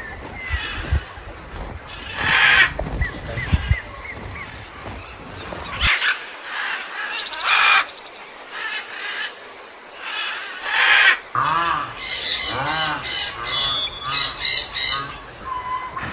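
Animal calls with birds chirping: a few loud, short, harsh calls in the first part, then from about three-quarters of the way in a rapid series of high, arching squeal-like calls.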